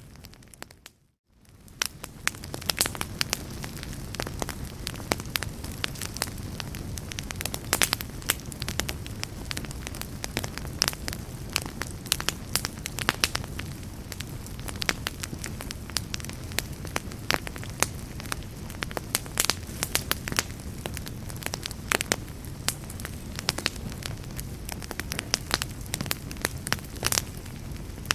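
Wood fire crackling, with a steady low rumble of the flames and frequent sharp, irregular pops and snaps. The sound cuts out briefly about a second in and fades back up.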